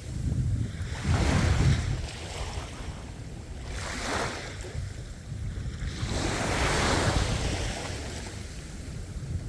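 Sea waves breaking on a shore, a rumbling crash about a second and a half in, then hissing washes that swell and fade again, with some wind noise on the microphone.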